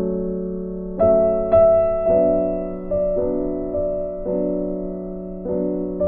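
Slow, soft piano music: single notes and chords struck about once a second, each left to ring and fade.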